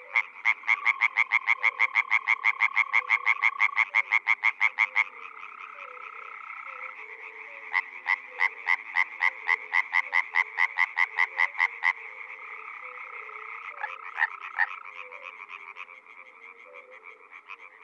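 European tree frog calling: two long runs of rapid, evenly spaced rasping notes, about seven a second, each lasting four to five seconds, with a few more notes later. A chorus of other calling frogs runs behind them.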